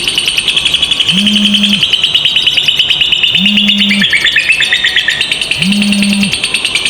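Lovebird's long 'ngekek': an unbroken, very rapid high chattering trill that dips lower in pitch about four seconds in. A low steady hum comes in under it three times, about every two seconds.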